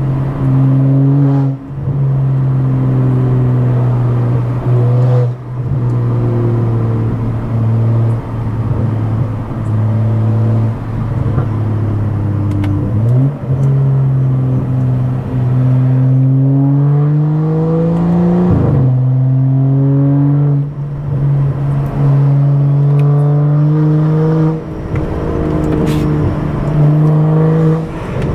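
Stage 2+ tuned BMW F10 535i's turbocharged 3.0-litre inline-six running through a loud exhaust under driving. The engine note repeatedly climbs under acceleration, then drops sharply at gear changes, most clearly about two-thirds of the way through.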